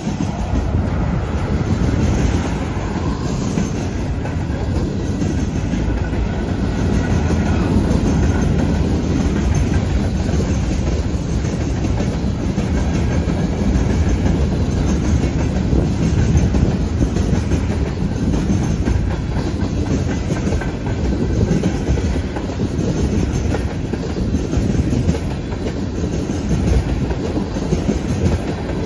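Freight train of covered hoppers and tank cars rolling past close by: a steady rumble of steel wheels on rail, with clickety-clack as the wheels cross the rail joints.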